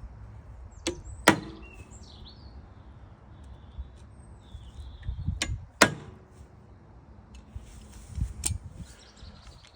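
Hammer striking a centre punch on a motorbike's steel centre stand to mark drilling holes: a light tap followed by a hard strike, twice, then one more blow near the end, with a short metallic ring after the hard strikes.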